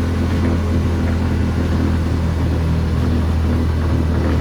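Three-wheeled GoCar's small engine running steadily at speed: a constant low hum with a haze of road and wind noise over it.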